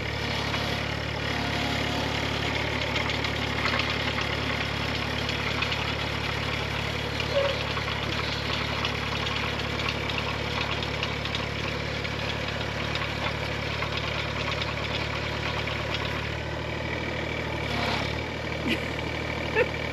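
Engine of a 1.7-tonne Case mini excavator, a small diesel, running steadily while the machine is worked, with light metallic clicks and knocks over it. The engine note shifts slightly near the end.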